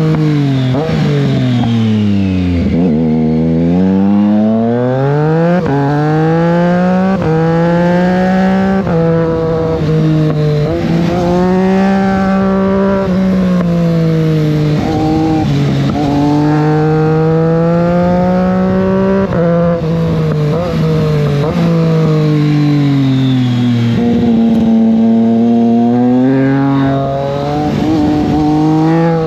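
Triumph Street Triple 660 S motorcycle's three-cylinder engine under way, its note dropping low about three seconds in, then rising again and again through the gears with short breaks at each shift, and easing off and pulling again for the rest of the ride.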